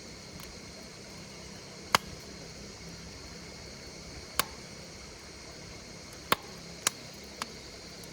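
Wood fire burning with a steady hiss and five sharp crackling pops: one about two seconds in, one halfway through, and three close together near the end. Insects chirr steadily and high-pitched underneath.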